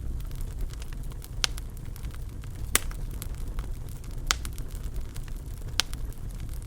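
Wood fire crackling in a fireplace: a steady low rumble with scattered small ticks and four sharp pops, about one every second and a half.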